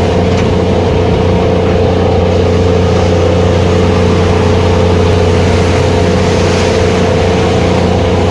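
Fishing vessel's engine running steadily with a constant low hum, under a rushing hiss of wind and rough sea.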